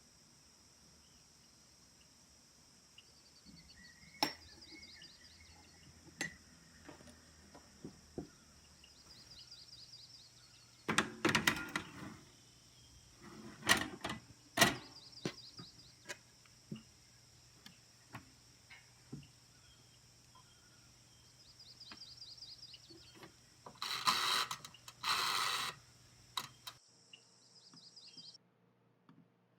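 Insects chirping steadily in the background, with a short trill repeating every few seconds. Scattered clicks and a few louder rustling, clattering handling noises come and go over it.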